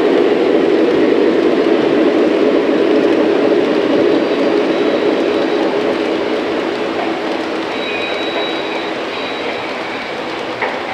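Lionel O gauge model train running on three-rail track: a steady rumble of wheels on rail that slowly grows quieter from about four seconds in. One sharp click comes near the end.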